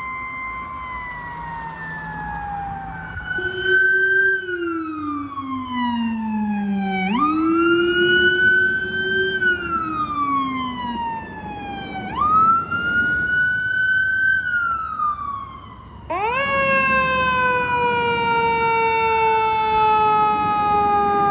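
Fire engine sirens wailing: repeated wails, each rising quickly and then falling slowly, with more than one siren overlapping. About sixteen seconds in, after a brief quieter moment, another wail starts sharply.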